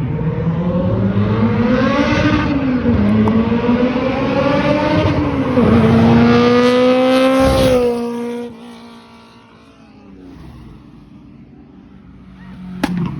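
A car engine revving hard as the car accelerates past, the pitch climbing, dropping at a gear change about halfway through and holding high before the sound falls away suddenly. A short sharp crack comes near the end.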